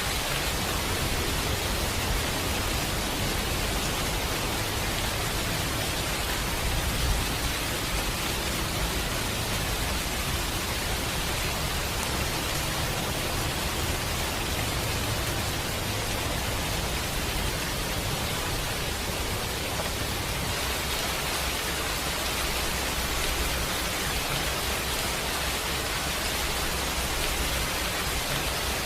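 Steady, heavy rain falling, an even dense hiss with no let-up, with a single brief pop about seven seconds in.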